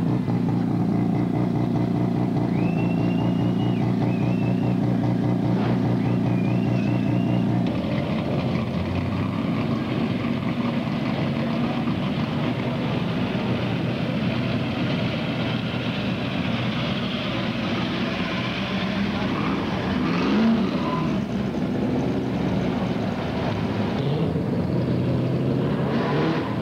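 Cruise cars rolling slowly past with their engines running steadily at low revs, over the voices of a crowd. About twenty seconds in, one engine's note rises and falls briefly.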